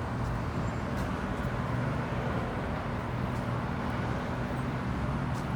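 Car engines idling at a car meet, a steady low rumble.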